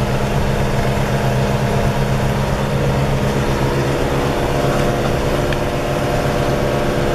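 An engine running steadily, a constant low drone with even tones above it.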